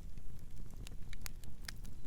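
Wood campfire crackling, with irregular sharp pops, several close together in the second second, over a steady low rumble.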